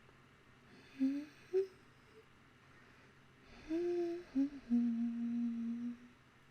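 A woman humming: two short notes, then a longer phrase ending in a note held for over a second.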